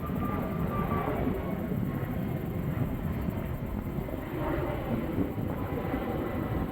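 Airbus A321XLR prototype's jet engines, a steady low rumble with a thin whine that falls slightly and fades out about a second in.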